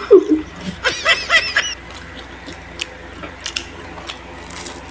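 Mouth sounds of people eating crispy fried food: a few sharp crunching clicks from chewing. About a second in there is a short, high giggle.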